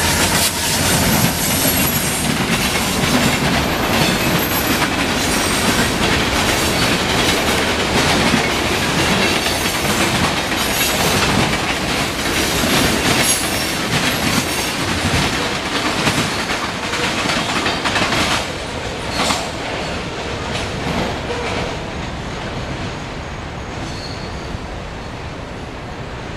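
Freight train cars rolling past, steel wheels clattering over the rails in a dense, continuous run; the rolling noise dies away over the last several seconds as the end of the train passes.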